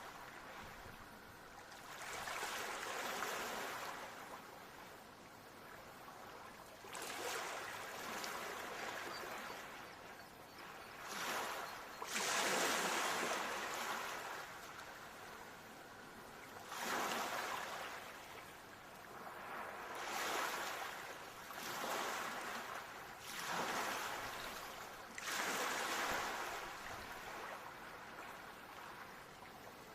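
Ocean waves breaking and washing in, in repeated surges every few seconds, each swelling up and fading away; the biggest comes about twelve seconds in.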